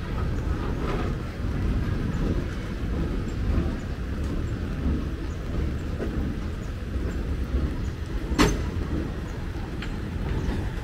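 Metre-gauge passenger coaches rolling slowly past with a steady low rumble of wheels on rail, and one sharp clank near the end.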